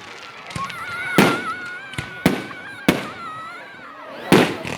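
Fireworks going off: about five sharp bangs spread over a few seconds, the loudest near the end, with a wavering high whistle through the first half.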